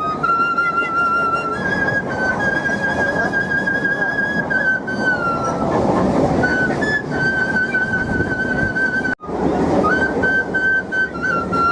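Bamboo flute played with the nose: a slow melody of long held notes that slide between pitches, over the running noise of a moving local train. The sound drops out briefly about nine seconds in.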